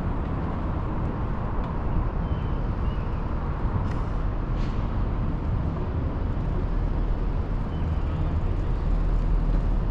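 Steady low rumble of city street traffic, with a couple of faint clicks about four seconds in.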